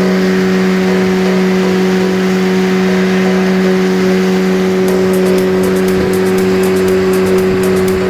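Small boat's outboard motor running loud and steady at high, constant throttle, with rushing wind and water noise over it.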